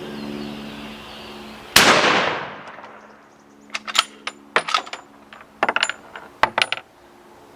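About two seconds in, a single loud blast from 2 pounds of Tannerite packed inside a dishwasher, set off by a .270 Winchester rifle shot, with a booming tail of about a second. Then a scatter of sharp metallic clinks and clatters over about three seconds as debris falls back. A steady low hum runs under the start.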